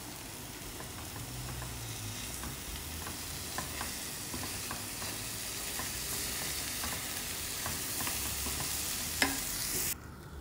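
Shrimp in tomato sauce sizzling in a small nonstick pan on a gas burner, with a wooden spoon stirring through it and a few light taps. One sharper knock comes shortly before the sizzle cuts off suddenly near the end.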